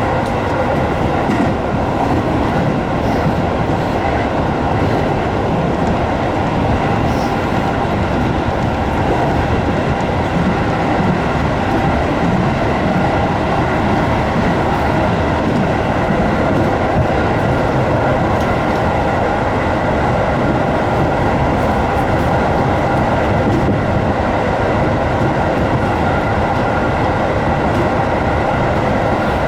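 JR 205-series electric train running along the track, heard from inside the front car: a steady rumble of wheels on rail with a constant whine of several held tones over it.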